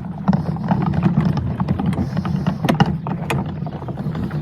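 A steady low motor hum with a rough, fluttering texture, with scattered knocks and clatter over it; two sharper knocks come close together about three seconds in.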